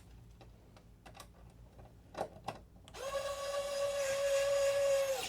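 Electric screwdriver running as a steady high whine for about two seconds, driving in a small screw, and stopping suddenly. A few light clicks of small parts being handled come before it.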